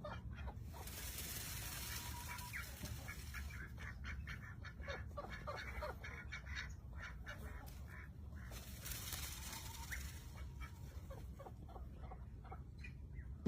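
Birds calling with many short, rapid chirps throughout, with two stretches of loud hiss, one about a second in and another past the middle.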